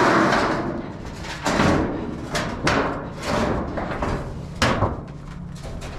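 Garage door panels being bent and folded by hand: a series of separate knocks and clatters, the sharpest about four and a half seconds in.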